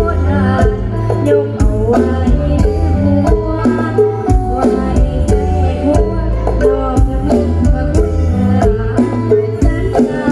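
Isan lam phloen band music: a steady drum beat under a melody line that bends and slides in pitch.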